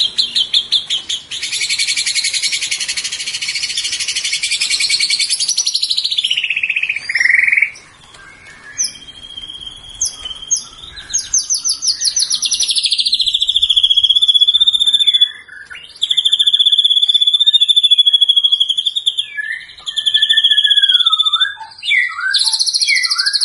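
White-rumped shama (murai batu) singing a loud, varied song. It opens with dense rapid trills that end in a falling sweep about seven seconds in. After a short lull come long wavering whistles, and near the end a string of short, quickly changing phrases.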